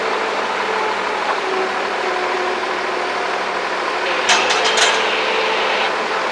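An engine running steadily, with a quick cluster of three or four sharp knocks about four seconds in.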